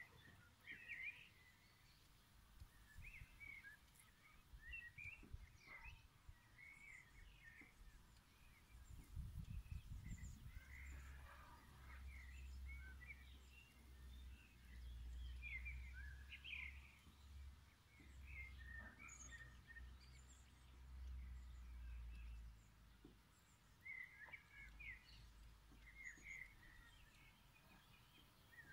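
Faint birdsong in a meadow: scattered short chirps and twitters of small birds, with a low rumble through the middle.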